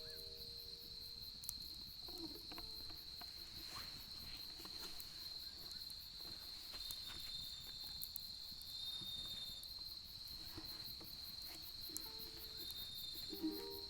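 Crickets trilling steadily, one continuous high-pitched note, with faint scattered crackles from a bonfire.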